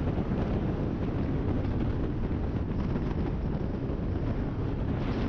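Steady wind rush and buffeting on a GoPro riding on a Kawasaki ZX-10R sport bike at speed, with the bike's running noise mixed in underneath.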